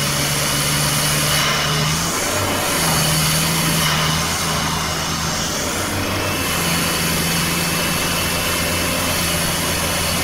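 Toyota 2KD-FTV 2.5-litre four-cylinder turbodiesel droning at highway speed, heard from inside the cabin over steady road and wind noise. Its tone dips briefly about two seconds in and again for a while in the middle, then holds steady.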